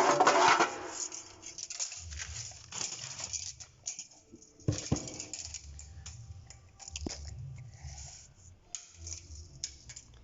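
Handling noise at a cast-iron stove as its ash drawer is worked: scraping and rustling, with several sharp knocks, the loudest near the start and about halfway through.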